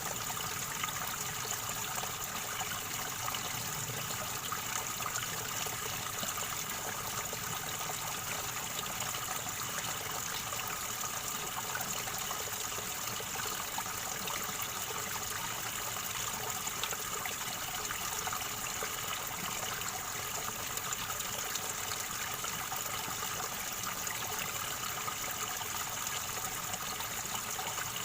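River water gurgling and rushing over stones in a steady, unbroken stream.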